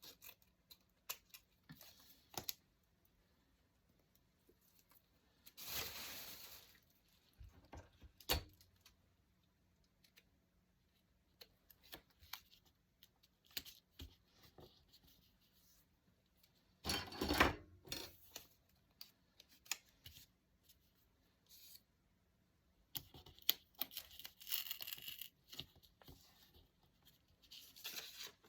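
Paper being handled for a handmade journal: scattered light taps and clicks, with three longer rasping passes of paper tearing or rubbing, the longest near the end.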